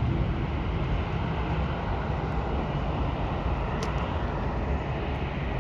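Steady low rumble of distant jet aircraft engines across an airport, with no distinct tones and a faint tick about four seconds in.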